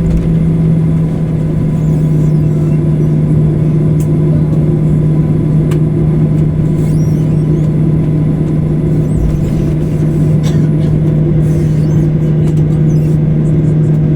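Boeing 737-800 cabin noise after landing: a loud, steady drone with a constant low hum and a few faint clicks.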